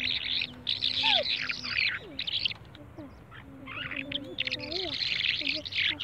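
Small caged birds chirping in fast, dense bursts, with a lull about halfway through. A low held note sounds twice underneath, each about a second long.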